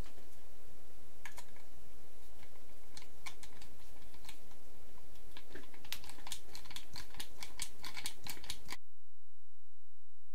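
A run of small, dry clicks and taps, sparse at first and then coming thick and fast, over a low hum; everything cuts off abruptly near the end.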